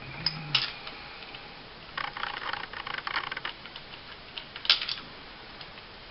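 Small steel parts of a 9mm 1911-style pistol clicking and scraping as it is stripped by hand and the slide lock is turned. There is a run of light clicks about two seconds in, and a sharper single click about three-quarters of the way through.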